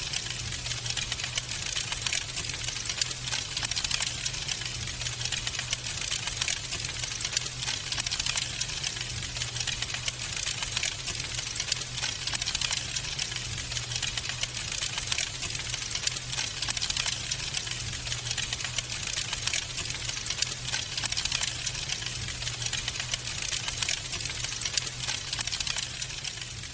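Wood fire crackling in a fireplace: a dense, steady stream of small pops and snaps over a low rumble, with a few louder pops now and then.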